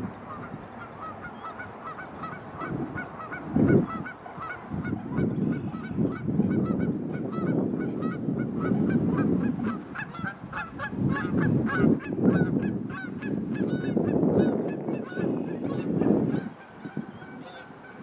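Birds calling in a rapid run of short, honking notes, several a second, that stops shortly before the end. A low rushing noise swells and fades underneath several times.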